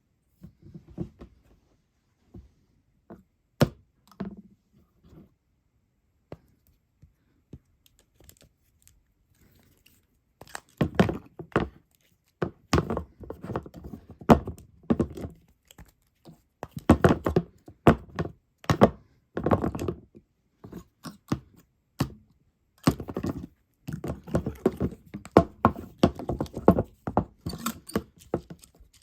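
A cicada and a moth fluttering and knocking against a hard surface: irregular taps and thunks, sparse at first, then dense clattering bursts from about a third of the way in.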